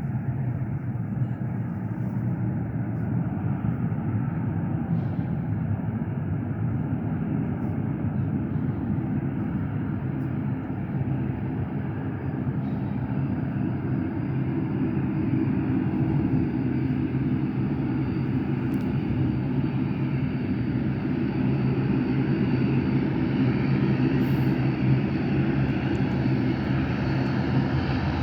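Airliner engines running: a steady drone with a thin high whine that comes in about halfway, the whole sound slowly growing louder.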